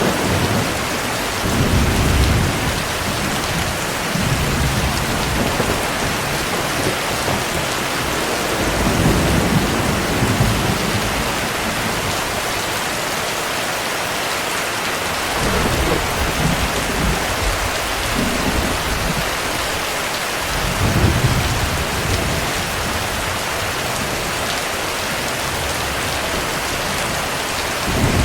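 Steady heavy rain falling, with low rolls of thunder rumbling up and fading away several times.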